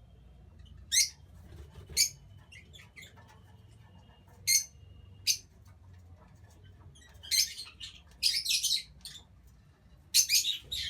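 Lovebirds giving short, sharp, high-pitched chirps: single calls about one and two seconds in and two more near the middle, then quick runs of several calls in a row toward the end.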